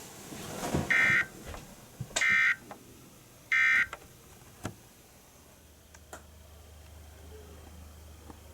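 Three short bursts of EAS/SAME end-of-message data tones from NOAA Weather Radio, each about a third of a second long and a little over a second apart. They mark the end of the tornado warning broadcast. Faint clicks fall around them, and a faint low hum comes in during the second half.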